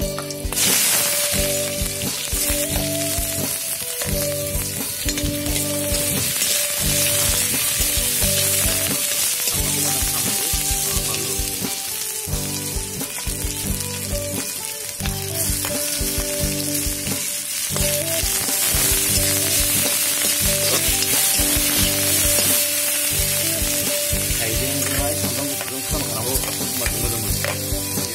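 Sliced onions sizzling in hot oil in an aluminium wok, stirred with a steel spoon. Steady sustained tones of soft background music run beneath the sizzle.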